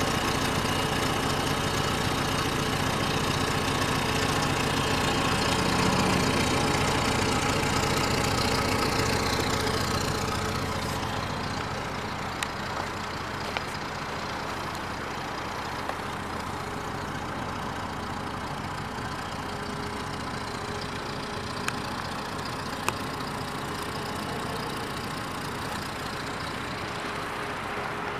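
A motor vehicle engine running steadily. About ten seconds in, a falling tone passes and the sound drops to a quieter steady hum, with a few sharp clicks later on.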